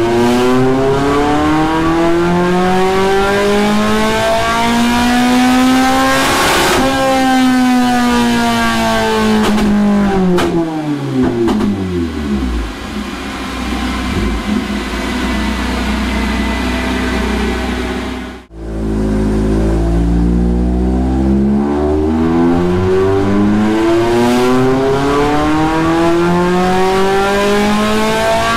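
Blacktop 20-valve Toyota 4A-GE inline four running with no muffler on its stock 2-1 exhaust section, making full-throttle dyno pulls. Its pitch climbs steadily to the top of the rev range about seven seconds in, then falls away as it coasts down and runs low. The sound breaks off briefly, and a second pull starts, climbing again to the end.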